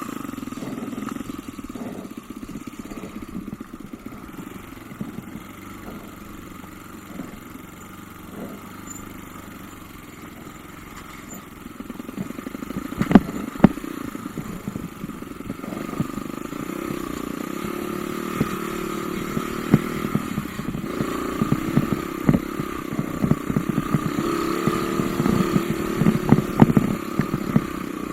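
Off-road motorcycle engine running while being ridden over rough trail, with clattering knocks from the bumpy ground. It gets louder about halfway through, and the engine note rises and falls with the throttle.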